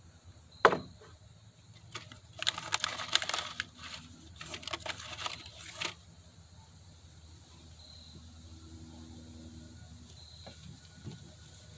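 Workshop handling noise: a single sharp knock, then two stretches of rough scraping and rustling of about two seconds each, as wood and tools are handled.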